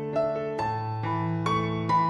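Background music: gentle piano playing chords and a melody, a new note or chord about every half second.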